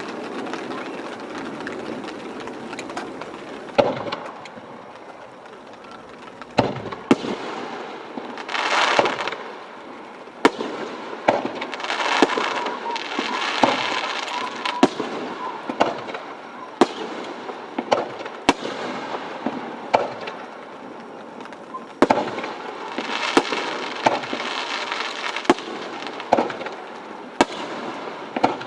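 Aerial fireworks bursting overhead: a long run of sharp bangs, one to three a second at times. In several spells the bangs are mixed with a hissing noise lasting a second or two.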